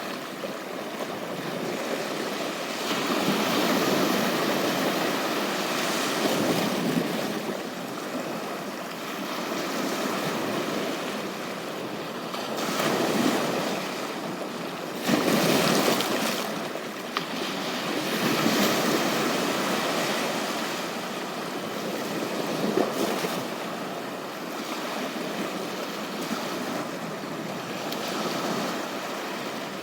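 Waves breaking and washing up on a beach, swelling and ebbing every few seconds. One louder wave comes in suddenly about halfway through.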